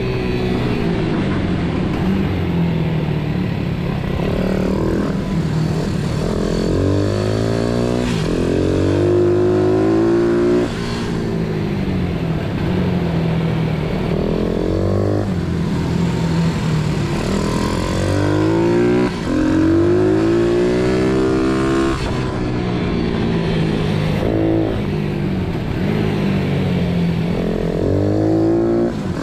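Pit bike's single-cylinder engine being ridden hard, its pitch climbing under throttle and then falling away over and over every few seconds, as it is run up through the gears and backed off again.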